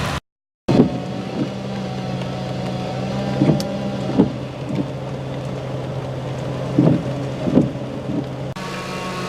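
A vehicle engine running with a steady hum, broken by several short, dull thumps. The sound cuts out completely for half a second just after the start.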